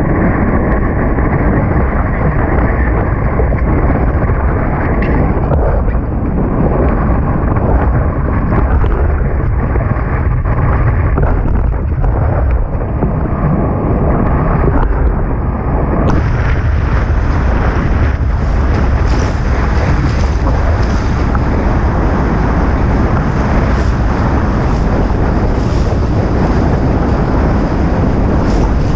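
Strong wind buffeting the microphone, a steady low rumble over the rush of water as a Tornado catamaran sails fast in high wind. About halfway through, the noise turns abruptly brighter and hissier.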